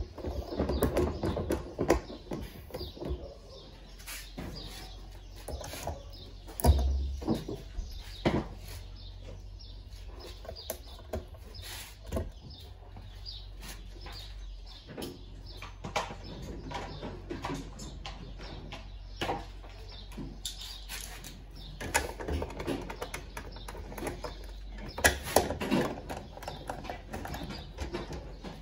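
Scattered clicks and knocks from handling parts while dismantling a washing machine, over a low steady hum, with birds chirping in the background.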